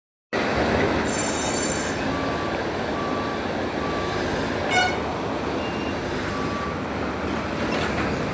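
Six-cylinder engine running steadily, a dense mechanical clatter, with a few short electronic beeps and a single sharp click about halfway through.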